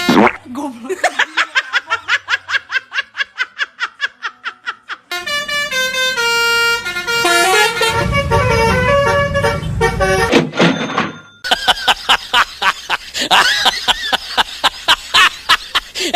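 Telolet bus horn, a multi-tone horn, playing a melody of stepped notes. In between come stretches of fast, even pulses, about five a second.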